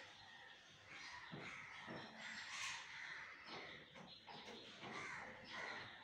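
Faint bird calls: a string of short, rough notes about every half second, with one sharper, louder call about two and a half seconds in.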